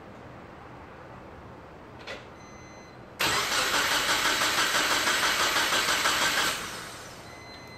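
Subaru Forester XT engine turned over by the starter for about three seconds without firing, with an even pulsing chug, then stopping. It is being cranked over after a turbo swap, before the first start. A click comes shortly before the cranking.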